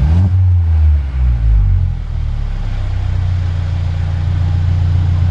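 Mercedes-Benz W207 E200 Coupe's four-cylinder petrol engine heard through an aftermarket HE'ART exhaust: a short rev blip right at the start, then a steady deep idle.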